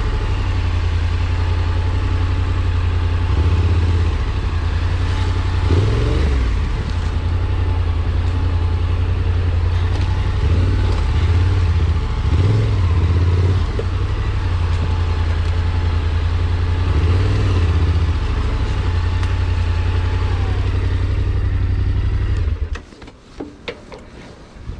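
Engine running steadily with a strong low drone and a few brief swells in revs, then shut off about 23 seconds in, leaving faint wind and a few clicks.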